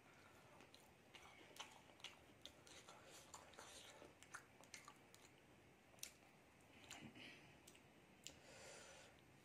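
Faint chewing with many small, irregular mouth clicks and wet smacks as a person eats a breadcrumb-coated, deep-fried egg devil.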